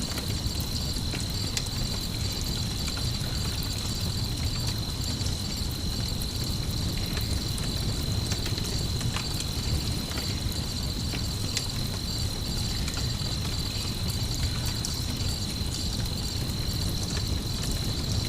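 Campfire crackling with scattered sharp pops over a steady high chirring of crickets and a low, even rumble.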